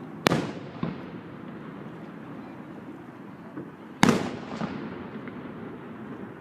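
Two aerial firework shells bursting, each a sharp bang that trails off over about a second, the first just after the start and the second about four seconds later, with a few smaller pops after each.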